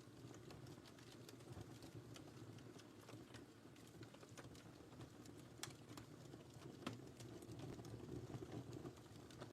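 Wood fire in a fireplace crackling quietly: scattered small pops and snaps over a low steady rumble of the flames, with a couple of louder pops a little past the middle.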